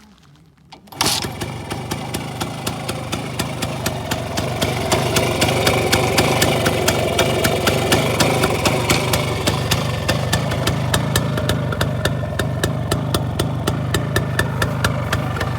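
Voskhod-2 motorcycle's single-cylinder two-stroke engine, with ported intake and exhaust, catches about a second in and then runs steadily with a rapid, even exhaust beat. It picks up a little in speed and loudness a few seconds after starting.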